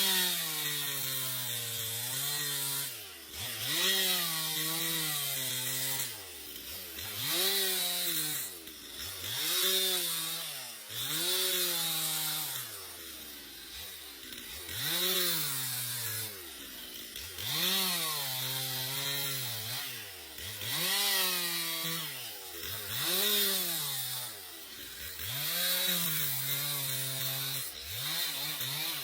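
Two-stroke chainsaw running through wood, its engine pitch rising and falling in a regular cycle about every two and a half seconds as it bites and frees in the cut.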